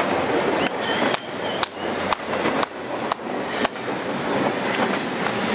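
Double-stack intermodal freight train rolling past at speed: a steady rumble of wheels on rail with a run of sharp clacks about twice a second, and a faint brief wheel squeal about a second in.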